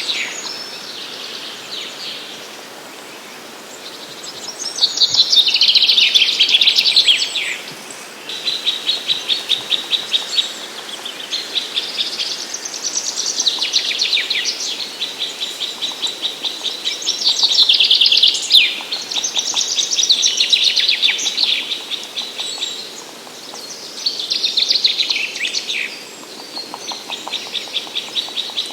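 Woodland songbirds singing in early spring: phrases of about two seconds, often falling in pitch, repeat every few seconds, overlapping a fast, even trill of rapid high notes.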